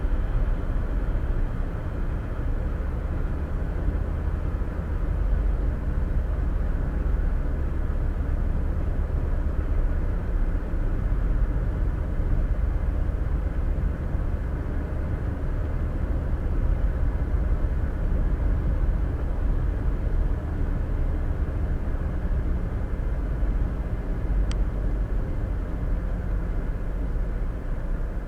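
Steady road and tyre noise with a low engine drone from a car cruising at highway speed, heard from inside the cabin.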